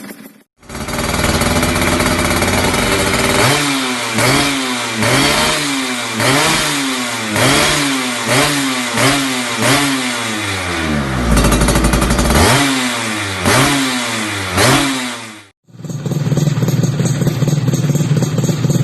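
Yamaha F1ZR's two-stroke engine through an RTX racing exhaust, blipped again and again so the pitch rises and falls about one and a half times a second, with a short drop to idle partway through. After an abrupt cut near the end, a second take has the engine idling steadily.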